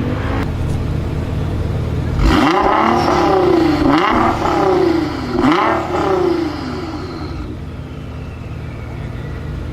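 Straight-piped Nissan R35 GT-R's twin-turbo V6 idling, then revved up three times in quick succession about two seconds in, each rev rising and dropping back, before settling to idle again.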